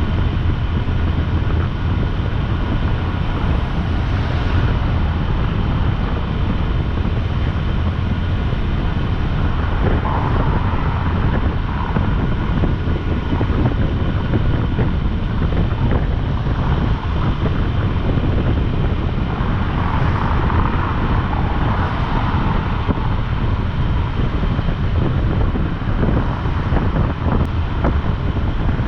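Motorcycle riding at speed, its steady drone and road noise mixed with wind rushing over the microphone. The rush swells briefly about ten seconds in and again about twenty seconds in.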